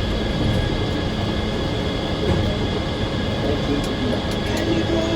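Circular sawmill running: a continuous loud mechanical drone with a steady high whine over it.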